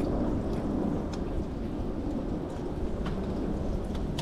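Steady rain: a low, even wash of noise with scattered sharp ticks of individual drops.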